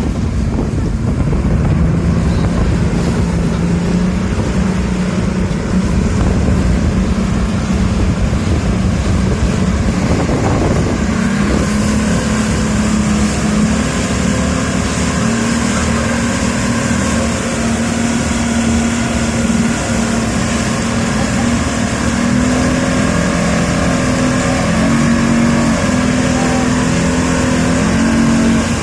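Small boat motor running steadily, its pitch stepping up about a third of the way in and wavering up and down after that.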